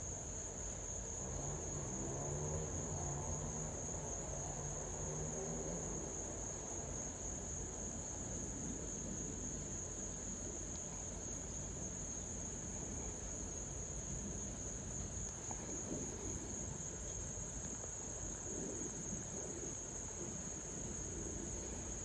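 Crickets chirring in a steady high trill, over the low rumble of a Boeing 737-900's jet engines as it flies away, with engine tones heard in the first few seconds and fading after that.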